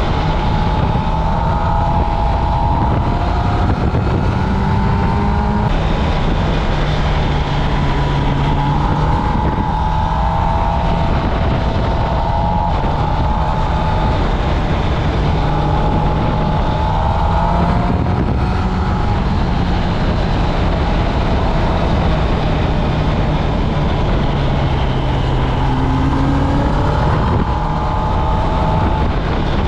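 Kawasaki Ninja ZX-10R's inline-four engine through its stock exhaust, under way on the road. The pitch climbs and falls again and again as the bike accelerates and shifts through the gears.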